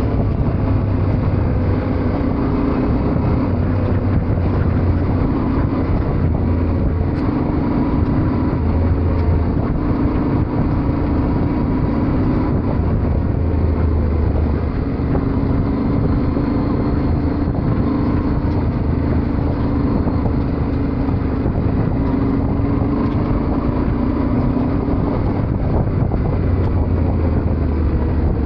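Yamaha Ténéré 700's parallel-twin engine running under way, its pitch rising and falling with changes in throttle.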